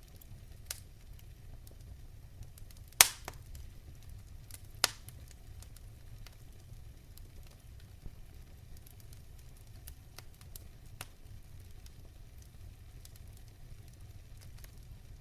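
Wood fire crackling in a fireplace: a low steady rumble with scattered sharp pops, the loudest about three seconds in and another a couple of seconds later.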